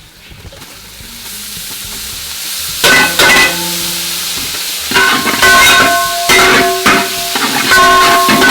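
Shallots and green chillies frying in hot coconut oil, the sizzle building over the first few seconds. From about three seconds in, a metal spatula stirs them, knocking against the pan with repeated short ringing clanks.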